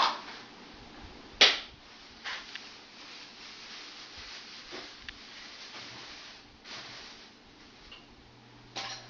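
Scattered sharp clicks and knocks from handling the air-conditioning control board and its switches and wiring, the loudest about a second and a half in. A steady low electrical hum starts near the end.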